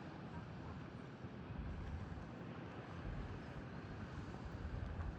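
Wind gusting on the microphone, low buffeting rumbles coming and going over a steady rushing noise.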